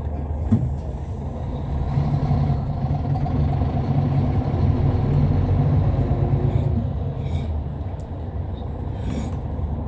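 Hyundai Universe Space Luxury coach heard from inside while driving: a steady low diesel engine drone with road noise, growing louder from about two seconds in until about seven seconds in. A single knock comes about half a second in.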